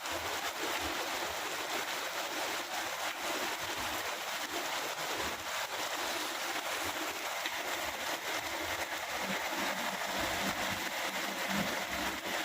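Steady rain falling: an even hiss with fine patter of drops, and a faint low rumble coming in near the end.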